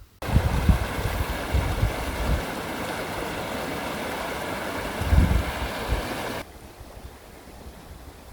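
Storm wind and rain rushing, with gusts buffeting the microphone in low rumbles. It drops suddenly to a quieter, steady rush about three-quarters of the way through.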